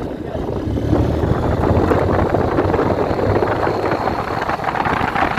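Motorcycle being ridden on a wet road in the rain: the engine runs under a steady wash of wind and road noise on the microphone.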